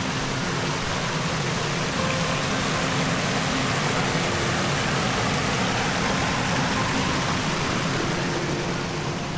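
Creek water rushing and cascading over rocks: a steady, even rush with no breaks.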